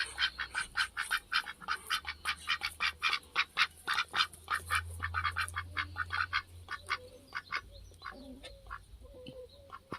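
Domestic ducks quacking in a rapid run of short calls, about four a second, thinning out and getting quieter after about seven seconds.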